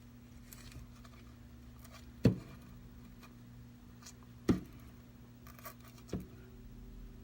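Small hand tools on a repair bench: faint scratching, then two sharp knocks about two seconds apart and a softer third one, over a steady low electrical hum.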